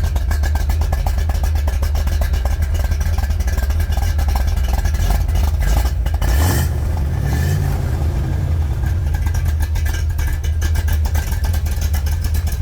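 Rebuilt 350 cubic inch Chevrolet small-block V8 running, with a steady rapid exhaust pulse. About halfway through it is briefly revved, rising and falling back in pitch.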